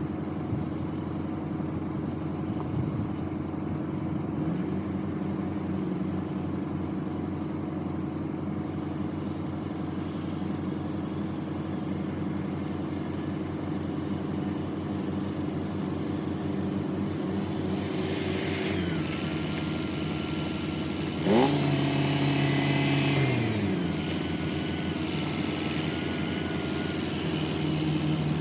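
Diesel engine running steadily, speeding up briefly about three-quarters of the way in and dropping back, with a thin high whine over the last third.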